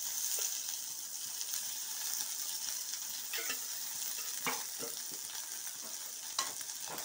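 Shallots and garlic sizzling steadily in sesame oil in an aluminium kadai over a gas flame, with a few light knocks of a utensil against the pan.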